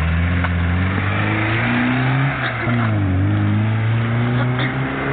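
Lada Zhiguli's four-cylinder engine revving hard as the car accelerates away. The pitch climbs, drops once at a gear change about three seconds in, then climbs again.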